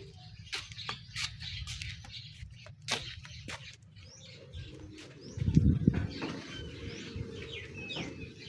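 Small birds chirping in short rising notes, over scattered clicks and knocks and a brief low rumble about five and a half seconds in.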